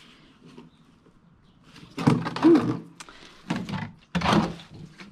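Gas can and siphon being handled: knocks and scrapes in three short bursts in the second half.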